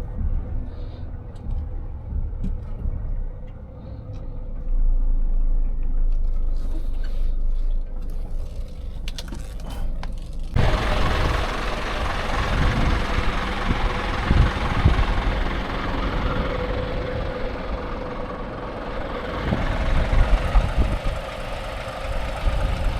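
Scania 500S truck engine running, heard as a low rumble. About ten seconds in, a louder rushing noise comes in suddenly and carries on over the engine.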